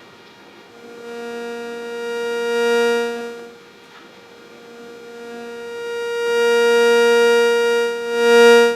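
Loud electronic interference buzz picked up by a microphone from a Rode Wireless Go II placed next to it: a steady pitched buzz with many overtones. It swells in and fades out twice.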